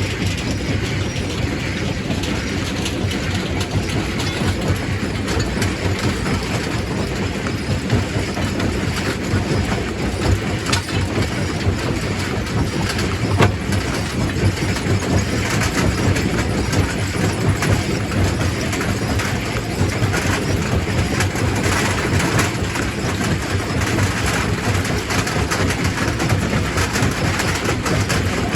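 Quarry primary rock crusher running: a steady heavy mechanical rumble with rocks continually clattering and breaking, and two sharp cracks standing out about eleven and thirteen and a half seconds in.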